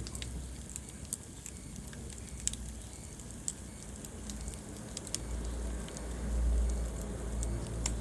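Wood fire burning in a fireplace, with scattered sharp crackles and pops over a low rumble of flame that swells about two-thirds of the way through.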